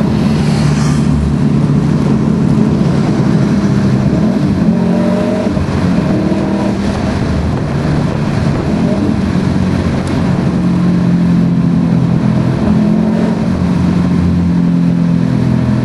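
Cabin sound of a US-spec Subaru Impreza STI's 2.5-litre turbocharged flat-four breathing through a Milltek exhaust, running hard at speed down a straight. The engine note holds fairly steady and shifts in pitch a little a few times, over wind and road noise.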